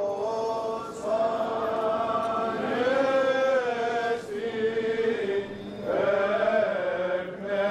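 Greek Orthodox Easter chant: long, slowly moving sung notes, with short breaks between phrases a little after four seconds and near six seconds.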